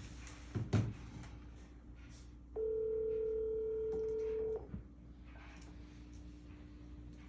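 A steady electronic beep, held for about two seconds in the middle, with a few soft knocks and clicks of handling in the first second.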